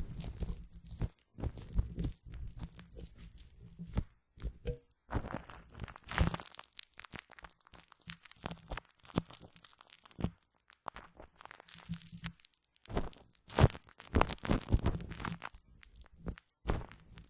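Shaving foam worked on a microphone, very close: sticky, crackling and popping sounds in uneven bursts, with a few short pauses.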